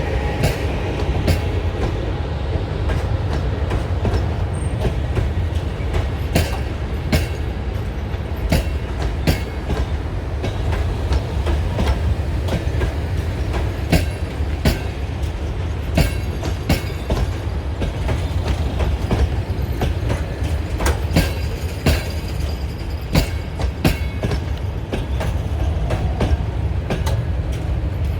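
A train moving along the track: a steady low rumble with many sharp, irregular clicks from the wheels passing over rail joints and points.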